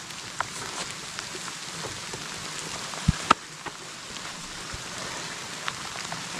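Heavy rain falling steadily, a dense hiss with scattered sharper taps of drops hitting a surface. Two louder knocks come close together a little after three seconds in.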